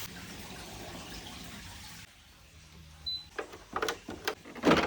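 Water poured out of a dehumidifier's collection tank in a steady stream, stopping abruptly about two seconds in, followed by a run of short knocks and clicks, the loudest near the end.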